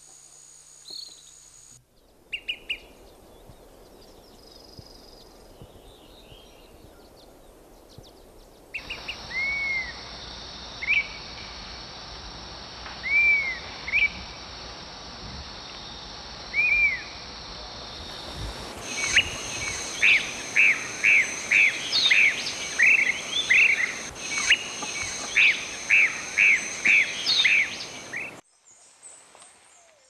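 Tyrant flycatcher calls, several spliced recordings against a steady high insect drone: a few slurred, up-and-down whistled notes a second or two apart, then in the last third a quick series of sharp calls, about two a second.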